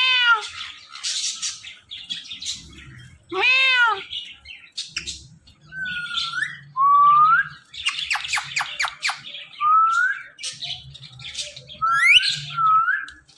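Ringneck parrots squawking, whistling and chattering with no clear words. There are harsh arched calls, short rising whistles, and a quick rattle of clicks about eight seconds in.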